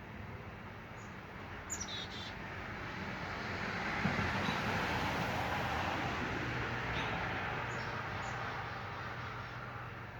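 Small birds giving a few short high chirps around backyard feeders, over a broad rushing noise that swells for a few seconds and fades away again, like a vehicle passing.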